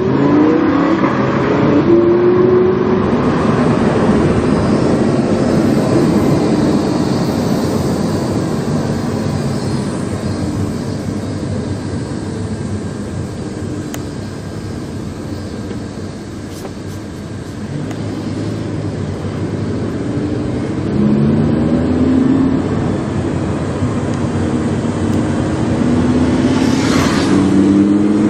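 Lamborghini Huracán's V10 running through a PowerCraft aftermarket exhaust, heard from inside the car: it accelerates with rising pitch at first, eases off to a quieter cruise in the middle, then pulls with rising pitch again in the last several seconds.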